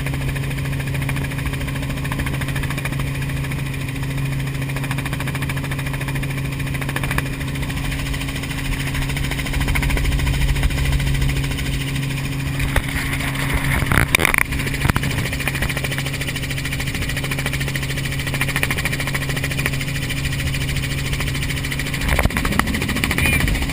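Helicopter running steadily, a loud, even droning hum, with a brief knock about fourteen seconds in.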